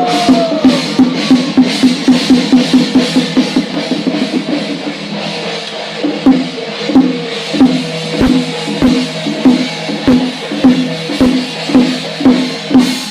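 Ceremonial Chinese temple drum beaten in a steady rhythm, fast for the first few seconds and then about two strokes a second, with a steady ringing note held above the beats.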